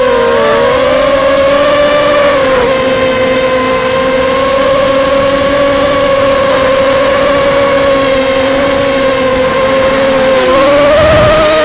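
Blackout 250 mini quadcopter's electric motors and propellers whining steadily in flight, the pitch wobbling briefly near the start and rising near the end as the throttle changes. The pilot suspects at least one motor is on its way out.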